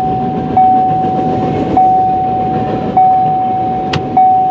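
Railroad crossing bell ringing, one ding about every 1.2 seconds, each ring held on a single tone, over the rumble of a long freight train's cars rolling past. A sharp click sounds once near the end.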